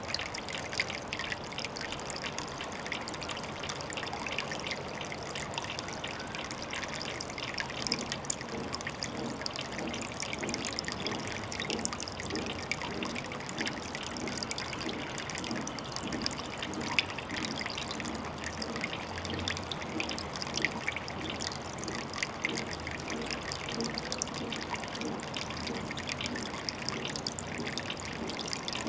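Water trickling steadily at a pond, with a constant patter of small drips and splashes and a gentle burbling.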